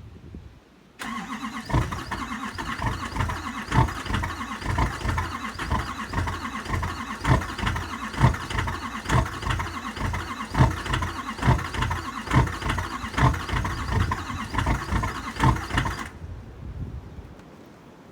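A 2013 LML Duramax 6.6-litre V8 turbodiesel starts suddenly about a second in and runs in a freezing cold start, with a rhythmic low knock about twice a second under a steady clatter. The sound cuts off near the end.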